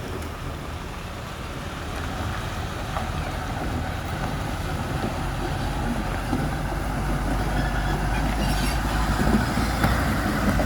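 Truck on the move: a steady low rumble of engine and road noise that grows gradually louder.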